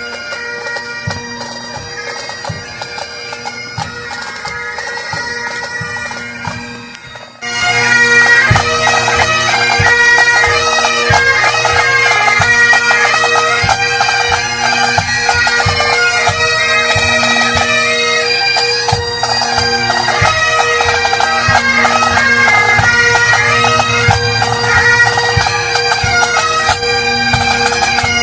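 Several Highland bagpipes playing a tune, the melody running over steady drones. About seven seconds in the sound suddenly becomes much louder and stays so.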